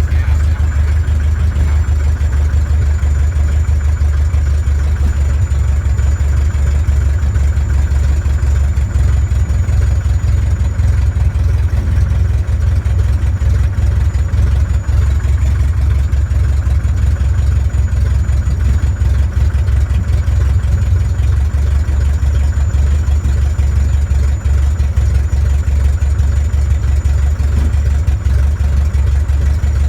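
Small airplane's engine running at a steady drone, heard from on board, with a heavy low rumble and a faint high whine above it.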